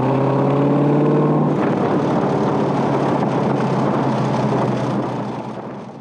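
Backdraft RT4 Cobra's 427 V8 accelerating, its note rising in pitch for about a second and a half, then the car pulling away with the engine sound fading out near the end.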